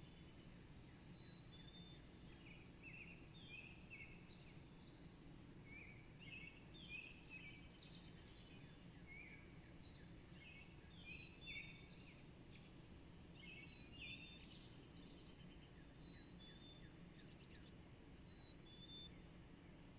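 Small birds chirping: many short, repeated calls throughout, faint over a steady low rumble of background noise.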